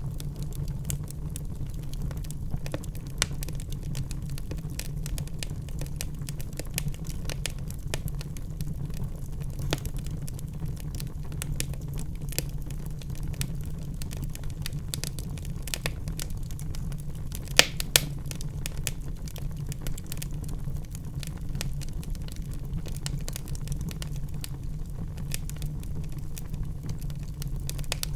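Wood fire crackling in a fireplace: a dense run of small pops and snaps over a steady low rumble, with two louder pops in quick succession about two-thirds of the way through.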